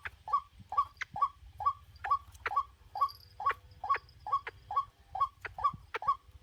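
White-breasted waterhen calling: a steady, evenly spaced run of short, harsh notes, a little over two a second.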